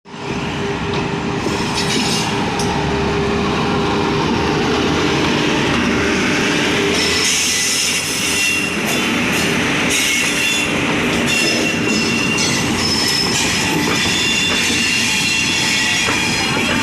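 Passenger train departing behind an electric locomotive: its coaches roll over the rails with steady wheel-and-track noise, clicks at the rail joints, and high wheel whines that come and go.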